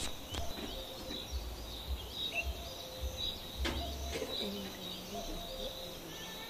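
Small birds chirping repeatedly in the background, with a few short knocks, one right at the start and one about four seconds in.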